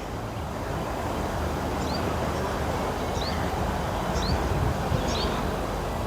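Outdoor garden ambience: a steady background rumble, with a small bird repeating short, high, upward-sweeping chirps about once a second from about two seconds in.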